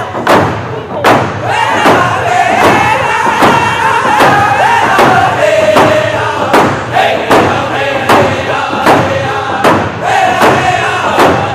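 Round dance song: a group of singers in a high, shrill unison chant over a steady drum beat, somewhat under two beats a second.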